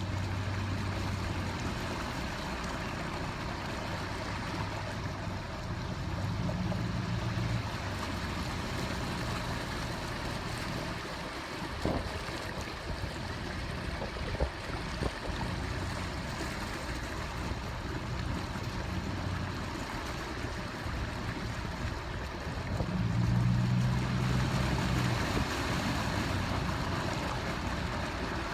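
Steady rushing noise of wind and storm water during a hurricane flood tide, with a low hum that swells three times and a few faint knocks.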